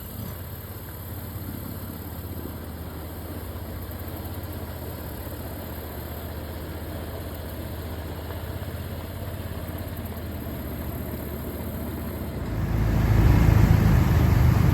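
Long-tail mud motor on a jon boat running steadily at low speed, then much louder from near the end.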